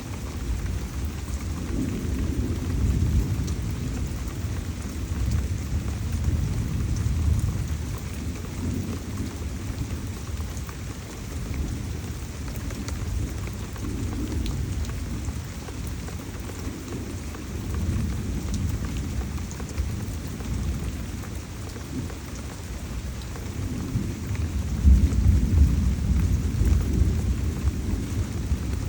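Heavy tropical rainstorm: steady rain with low rumbles of thunder that swell and fade several times, the loudest about 25 seconds in.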